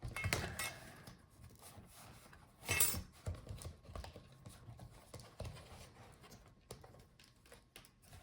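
Scattered light clicks and knocks of laptop parts being handled as the screen hinges of a Lenovo Yoga 7 laptop are unfolded, with a louder clatter about three seconds in.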